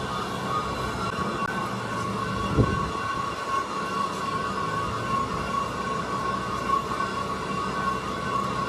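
Factory machinery running with a steady whine over a low hum, and one sharp knock a little over two seconds in.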